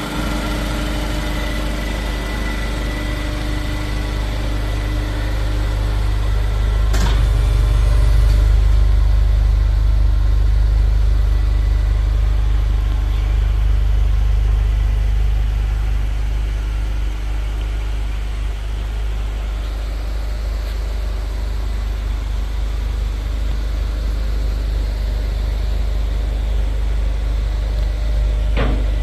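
2015 Ford Focus Mk3 2.0-litre four-cylinder running at idle through an aftermarket full exhaust (header with metal catalyst, mid muffler, twin-outlet rear section): a steady, deep exhaust note. It swells a little louder for several seconds in the middle.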